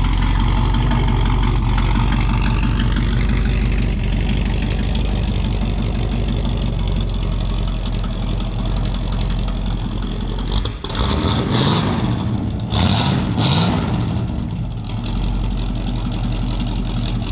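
Carburetted Pontiac Star Chief engine idling steadily shortly after a cold start. About two-thirds through, a few brief noisy bursts break over the idle.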